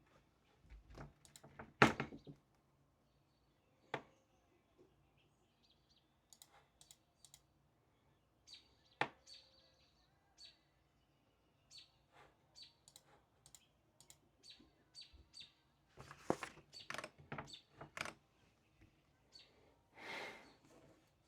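Small birds chirping repeatedly, short high chirps, with scattered clicks and knocks; the loudest is a sharp knock about two seconds in.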